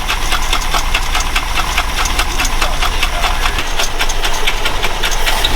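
Truck engine idling with a rapid, even ticking, about four to five ticks a second, while the fuel system tries to draw fuel up from the tank. A low hum underneath drops out about two-thirds of the way through.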